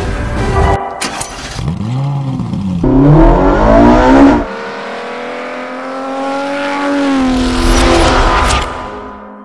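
Ferrari 458 Italia's V8 engine revving. A couple of blips rise and fall, then a loud climb cuts off about four and a half seconds in. After that comes a rising, steadier pull that fades near the end.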